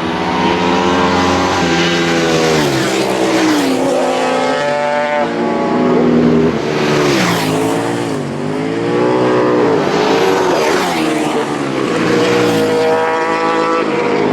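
Racing motorcycles going by at speed one after another, their engines at high revs, the pitch climbing and then dropping sharply several times as they shift gears and pass.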